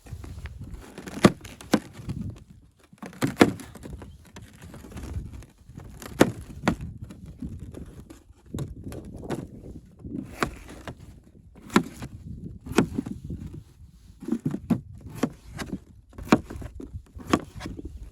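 Irregular sharp knocks and clicks, roughly one a second, over low rumbling handling noise.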